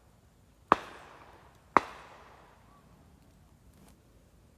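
Two shotgun shots about a second apart, each with a trailing echo.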